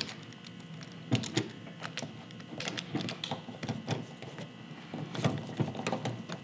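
Irregular light clicks and knocks of paintless-dent-repair tools being handled while a glue-tab puller is set up on the dented panel, over a faint steady high hum.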